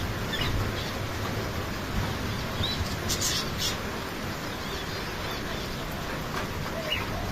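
Small birds giving short, scattered chirps, with a cluster of calls about three seconds in, over a steady hiss of rain.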